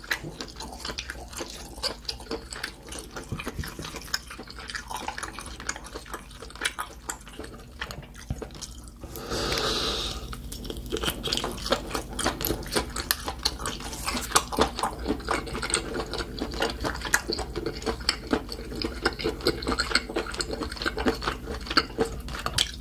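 Close-miked chewing and mouth sounds of eating spicy grilled octopus (nakji horong-gui), with many small clicks. About nine seconds in, a louder steady rush lasts about a second and a half.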